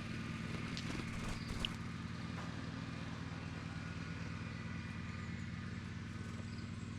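A car engine idling with a low, steady hum. There is a small click about a second and a half in.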